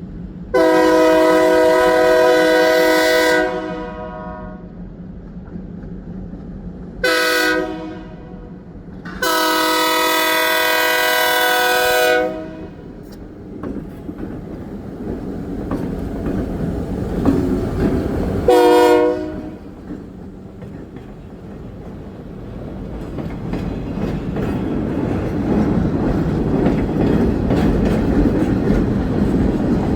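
Keewatin Railway train's diesel locomotive horn sounding a chord in four blasts: long, short, long, short. Then the train starts moving and the rumble of the engine and wheels on the rails builds steadily.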